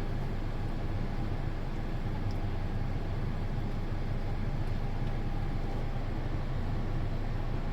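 A car idling, heard from inside the cabin as a steady low hum with a faint hiss over it.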